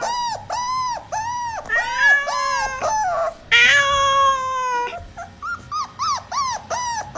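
A dog whining in a quick run of short, high, rising-and-falling whimpers, about two to three a second, broken by two longer drawn-out howl-like calls about two seconds and three and a half seconds in.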